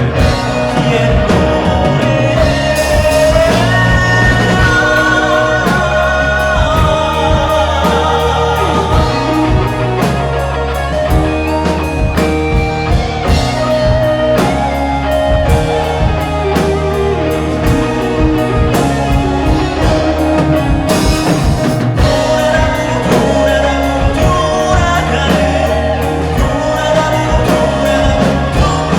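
Live band performing a song with a singer, a steady beat running through it.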